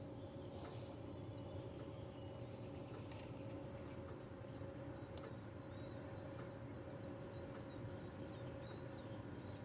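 Faint outdoor ambience: small birds chirping repeatedly in short, high-pitched calls over a steady low hum, with a few light clicks.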